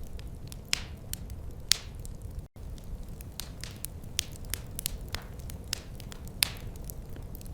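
Wood fire in a fireplace crackling, with irregular sharp pops over a steady low rumble. The sound cuts out for a split second about two and a half seconds in.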